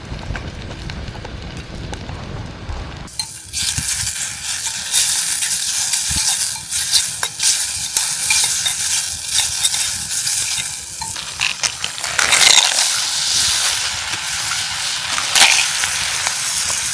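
A low rumble, then about three seconds in food starts sizzling loudly in a hot camp pan, with a few clicks of stirring. This is the start of frying for a second dish.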